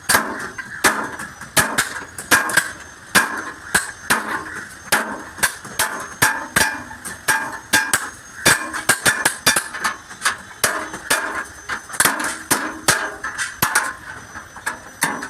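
Hammer blows on the sheet-steel panel of a Tata truck cab during dent repair, struck irregularly about two or three times a second, each blow ringing briefly.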